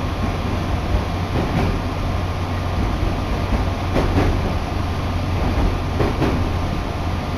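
Inside a moving electric commuter train on the JR Tsurumi Line: a steady rumble of wheels and running gear, with double clacks of the wheels crossing rail joints about four and six seconds in.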